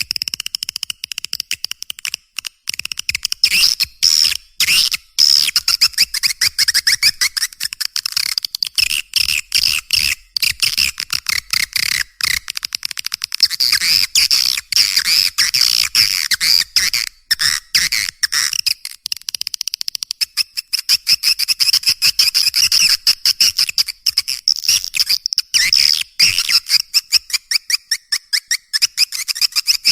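Swiftlets twittering: a dense, unbroken chatter of rapid clicks and high chirps. This is a swiftlet lure call ('suara panggil walet'), the recording played to draw swiftlets in.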